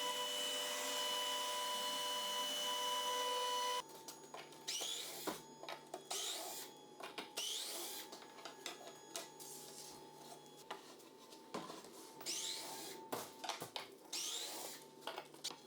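CNC router carving wood. For the first few seconds a steady machine hum holds several tones. It then changes abruptly to quieter, intermittent motor whines that rise in pitch every second or two, with small clicks, as the axes move.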